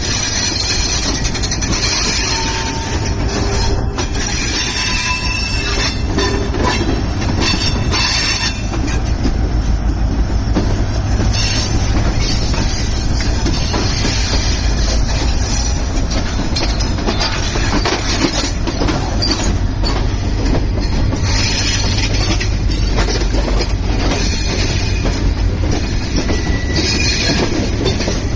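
Passenger train running along the track with a steady low rumble, wheels clattering over the rails and a few brief high wheel squeals.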